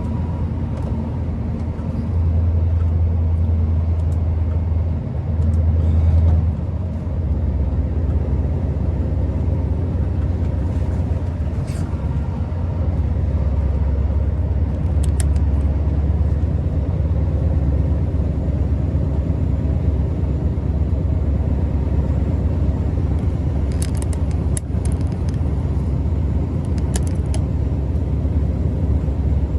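Scania R650's 16-litre V8 diesel running steadily under way, a low drone that swells louder for a few seconds about two seconds in. A few faint clicks come here and there.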